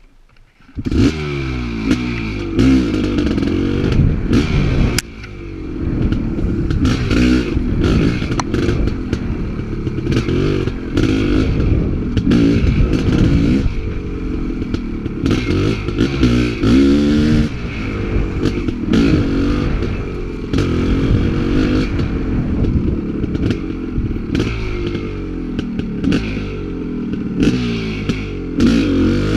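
Dirt bike engine riding single track, revving up and falling back over and over as the rider works the throttle and gears, with the bike clattering over rough ground. It starts about a second in, with a brief drop in level around five seconds.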